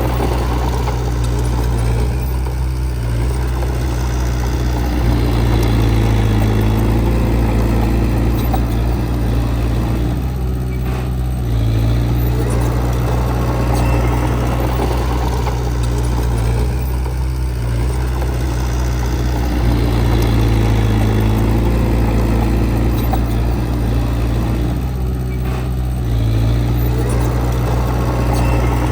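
Heavy diesel engine of an earthmoving machine running steadily, its note easing off and building again about every 7 to 8 seconds as the load changes.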